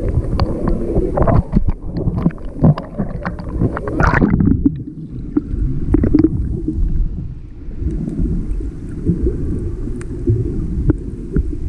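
Water splashing and knocking, then about four seconds in the sound turns muffled, with a low rumble and gurgling as heard underwater.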